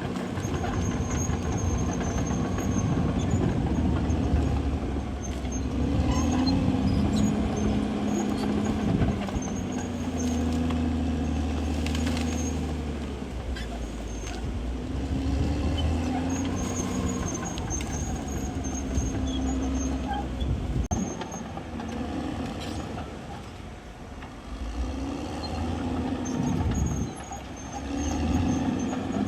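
CAT D6R XL bulldozer's diesel engine working under load, its pitch rising and falling again and again as it pushes and eases off, with scattered metallic clanks and a faint intermittent high squeal.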